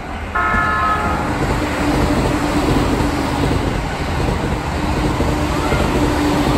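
Electric commuter train's horn sounding one short toot of about a second, over the loud rumble of the train running past close below.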